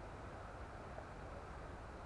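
Faint, steady background noise like a low hiss, with no distinct event in it.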